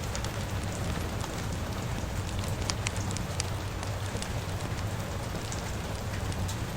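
Steady rain mixed with a crackling fire, with scattered sharp pops and ticks over an even hiss and a low rumble.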